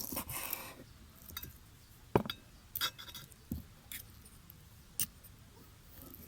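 Handling sounds: scattered sharp clicks and clinks of small hard objects, with a brief rustle at the start.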